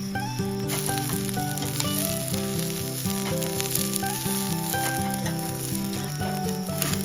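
Food sizzling in a pan over a homemade pail-can wood gas stove, the hiss growing stronger about a second in. Background music plays with it.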